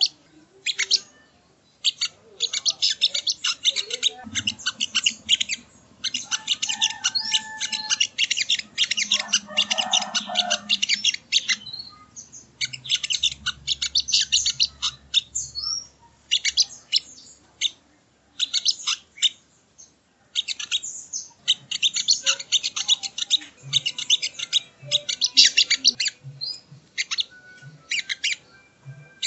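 Song of the sogon (sogo ontong) bird: long runs of very fast, sharp, chattering notes, each run lasting a few seconds, with short pauses between runs.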